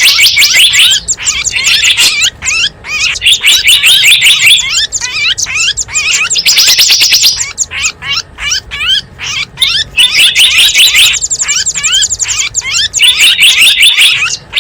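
Lure recording of small wild birds calling: dense, rapid high chirps and trills in repeated bursts, with a few short pauses between phrases.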